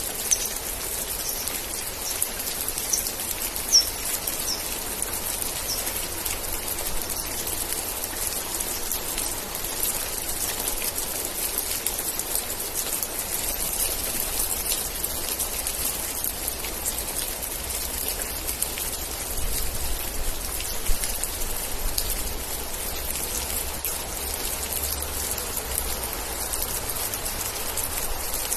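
Steady rain, an even hiss of falling drops with sharp individual drip ticks. A few short high chirps sound in the first several seconds, and a low rumble comes in about halfway through.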